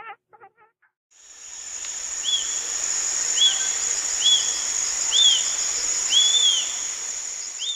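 Outdoor nature ambience: a steady high-pitched insect drone over a light hiss. A short arched chirp repeats about once a second, six times.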